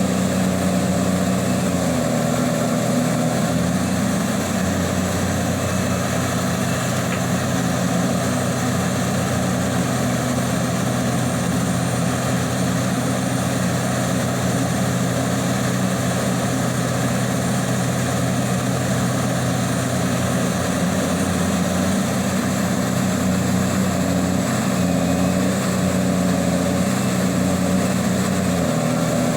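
Liebherr R 984 hydraulic excavator's diesel engine running steadily under working load, its low note shifting slightly a couple of seconds in and again over the last several seconds.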